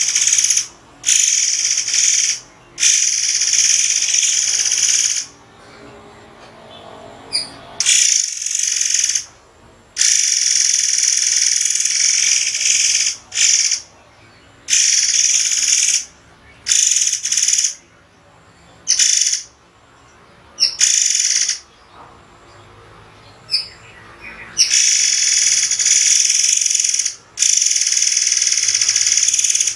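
Murai air songbird giving loud, sharp, high-pitched calls in bursts from half a second to about three seconds long, with short pauses between them.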